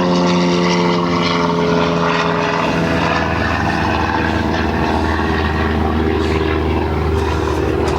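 Propeller airplane flying over, a steady engine drone with several pitched tones that fade after about three seconds into a lower rumble.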